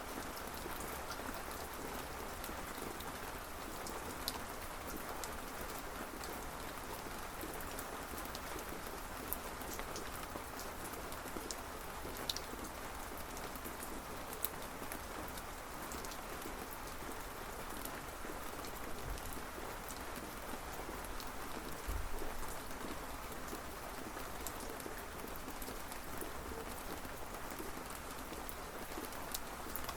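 Steady rainfall, an even hiss with scattered sharp drips and drop ticks, and a brief low thud about two-thirds of the way through.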